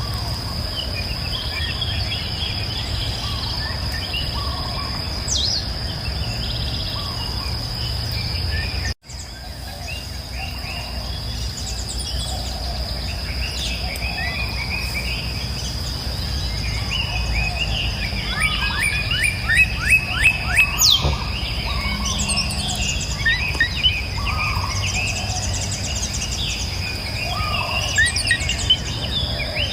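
A dawn-chorus-like mix of several songbirds chirping and calling over a steady high insect buzz and a low rushing background of river water. A little past the middle, one bird gives a fast series of repeated notes, the loudest part. The sound cuts out for an instant about nine seconds in, a loop join in the recording.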